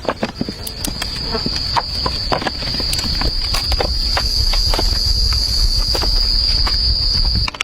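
Insects drone steadily at one high pitch, with irregular clicks, snaps and knocks throughout.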